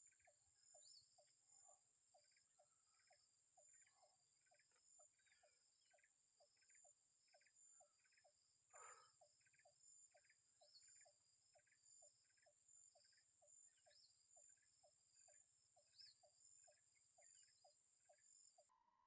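Faint insect chorus: a steady high-pitched whine with a regular chirping about twice a second, and one louder call about halfway through. It cuts off abruptly just before the end.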